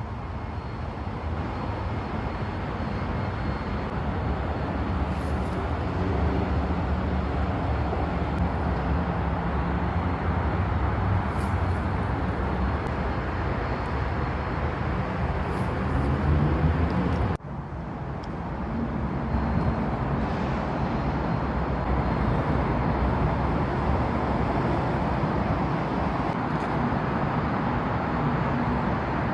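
Motor vehicle running with steady engine and road noise, the engine pitch drifting up and down. It breaks off sharply about halfway through, and similar vehicle noise carries on after.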